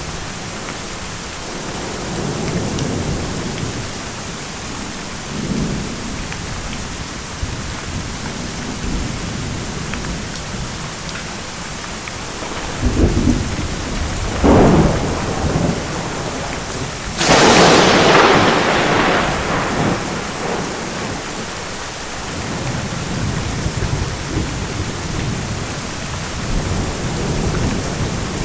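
Thunderstorm: steady rain with rolling thunder. Low rumbles early on, then a few sharp cracks build to a loud, close thunderclap about two-thirds through that fades back into rumbling under the rain.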